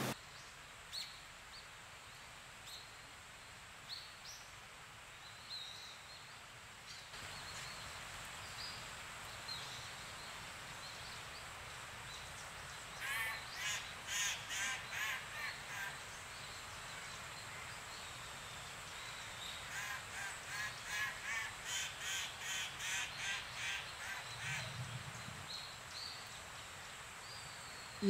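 Forest ambience: a steady rushing hiss with scattered short bird chirps. Twice, a bird gives a run of harsh calls, about three a second, lasting a few seconds each time.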